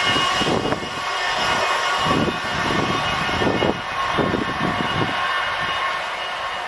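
Freight train of lorry trailers on flat wagons rolling away, a steady rushing rumble that slowly fades. Irregular low gusts of wind buffet the microphone.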